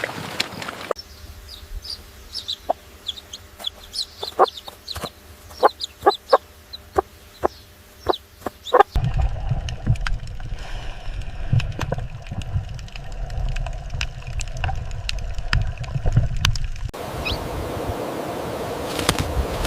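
Chickens clucking and calling in a run of short back-to-back clips with abrupt cuts between them. The first stretch has high chirps over sharp clicks, and the next has a low rumble under the calls.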